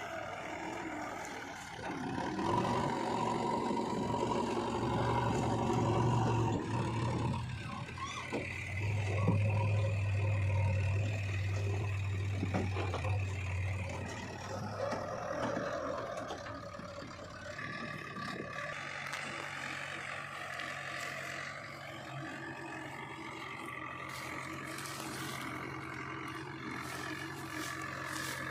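Heavy diesel machinery engines running. They rev up under load twice for several seconds each, then settle to a steadier run.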